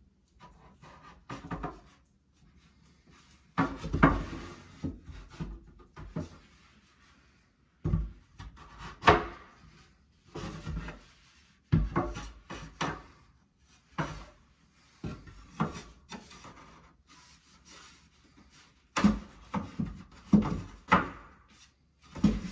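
Wooden boards handled and fitted: irregular knocks, taps and short scrapes of wood on wood.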